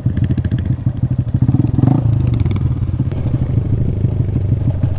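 Honda Grom's 125 cc single-cylinder four-stroke engine running at low revs, a chugging, slightly uneven beat.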